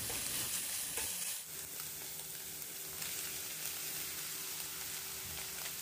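Vegetables and scrambled egg sizzling in oil in a stainless steel frying pan, stirred with a spatula at first. After about a second and a half it settles into a steady, slightly softer sizzle.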